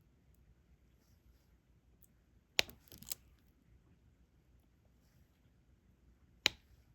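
Small sharp clicks of diamond painting: a stylus picking up resin drills and pressing them onto the sticky canvas. One click about two and a half seconds in is followed by a short rattling cluster, and a single click comes near the end.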